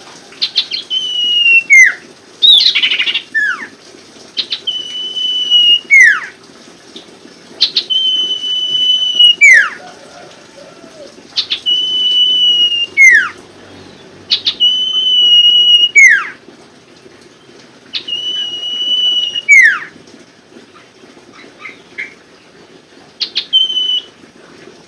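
Sirtu songbird repeating its whistled song phrase: a held high note that ends in a quick downward slur, coming again every two to three seconds. It is a lure recording used to prompt caged sirtu to sing.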